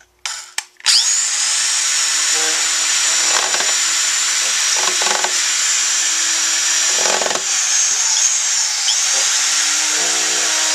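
Electric drill boring feed holes, starting with two short bursts, then running steadily with a high whine from about a second in.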